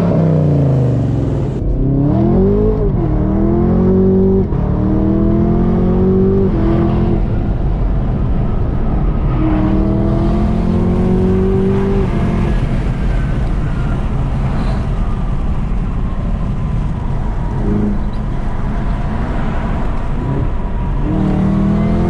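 Car engine revving loudly several times, its pitch climbing and then holding steady for a few seconds each time.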